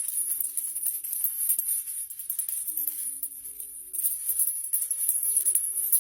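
Maraca shaken in a continuous rattle that grows heavier about four seconds in, with faint held notes underneath.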